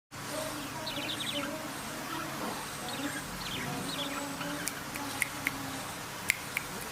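Birds chirping and calling, short high chirps over lower calls, with a few sharp clicks in the second half.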